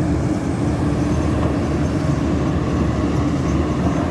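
Heavy diesel earthmoving machinery running steadily at close range: a CAT 320D2 excavator working a pond dig alongside a dump truck.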